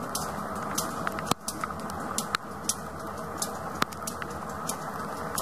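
Rain falling, with drops landing close to the microphone as irregular sharp ticks, two or three a second, over a steady hiss.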